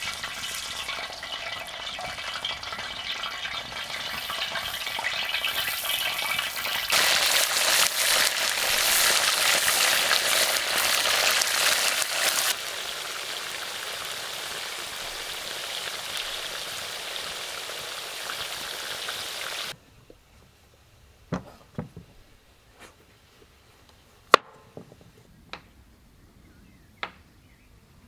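Food sizzling and frying in hot oil: a steady crackling hiss that jumps louder about 7 seconds in, drops back a few seconds later, and cuts off abruptly about two-thirds of the way through. A handful of sharp light clicks and taps follow.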